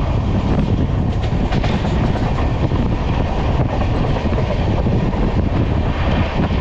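Express passenger train running at speed, heard from an open coach doorway: a steady, loud noise of wheels on the rails.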